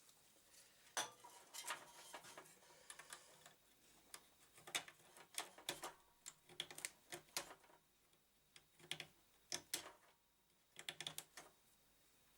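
Hands working on the computer's parts: irregular light clicks and taps, some in quick clusters of two or three.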